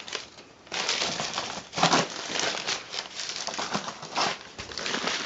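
A paper advertising flyer crinkling and rustling in irregular bursts as a cat grabs and swats at it.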